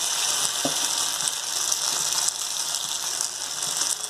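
Marinated chicken leg pieces shallow-frying in hot oil in a pan: a steady sizzle with scattered small crackles.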